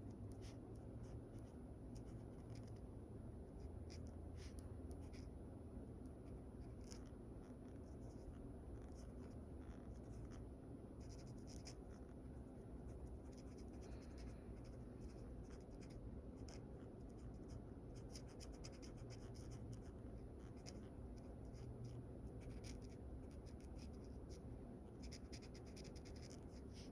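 Faint scratching of a drawing tool on paper: short sketching strokes that come in clusters, over a steady low background hum.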